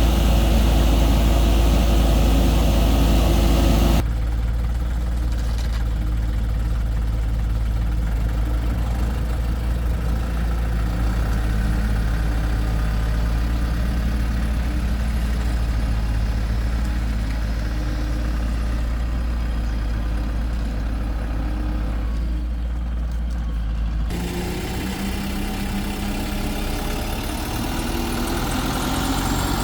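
Heavy construction-machine diesel engine running steadily at low revs, its sound changing abruptly about four seconds in and again near the end.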